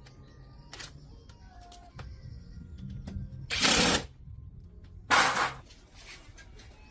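Two short bursts of hissing noise about a second and a half apart, over a low steady hum and scattered small clicks.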